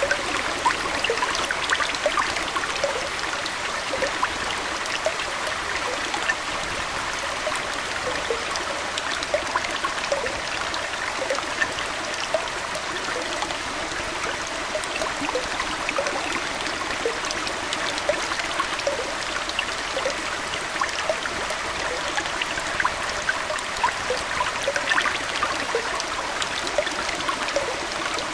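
Aquarium water trickling and splashing steadily, with many small, quick plinks of drops and bubbles over an even rush.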